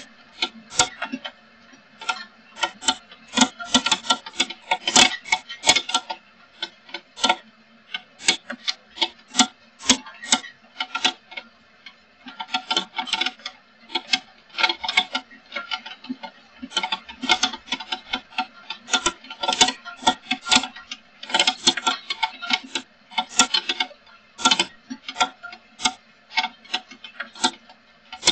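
Irregular rapid tapping of raindrops striking a hard surface close to the microphone, several strikes a second at uneven intervals.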